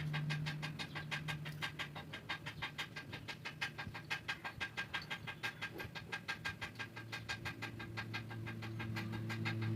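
Rapid, even mechanical ticking, about seven ticks a second, over a low steady hum that drops in pitch near the end.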